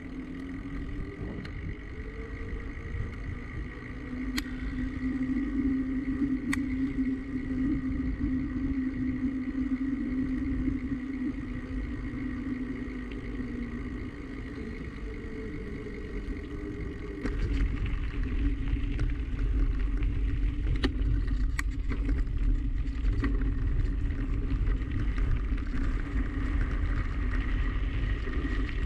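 A bicycle ride on a road: a steady hum of moving along, then rumbling wind on the action camera's microphone from about seventeen seconds in.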